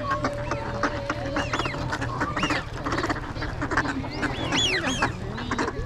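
A flock of wild ducks calling over one another: many short quacking calls mixed with loud, drawn-out whistles that rise briefly and then fall, recurring every second or two.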